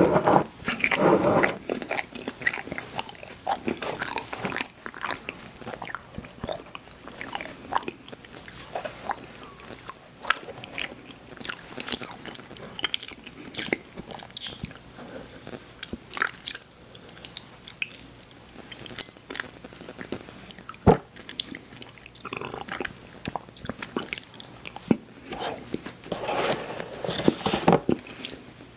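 Crisp cookies being bitten and chewed close to the microphone: irregular crunches, with wet mouth sounds between them.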